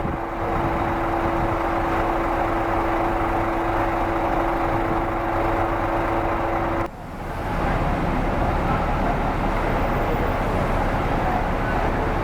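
Scania K410 coach on the move: steady engine and road noise, with a steady hum over it. About seven seconds in, the sound drops out abruptly and the hum is gone when the noise returns.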